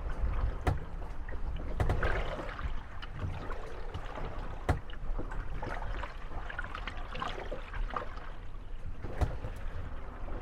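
Moored wooden gondolas rocking in small waves: water lapping against the hulls, with sharp knocks, about four, as the boats bump together, and some creaking.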